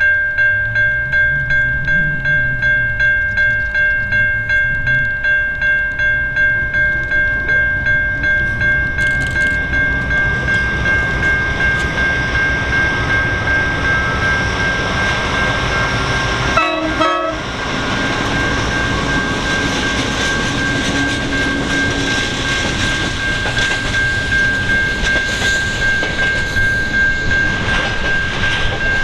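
Train running into a passing loop. For the first half a steady high ringing tone pulses about three times a second; after a brief dropout about halfway through comes the continuous rumble and rattle of the train, with the high tone still over it.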